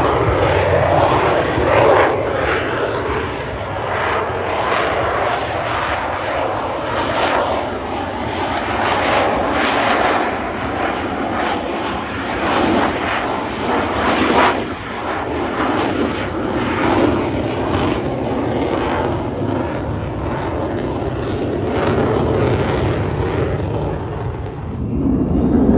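Aircraft engine noise from a display plane in flight, rising and falling in level as it manoeuvres.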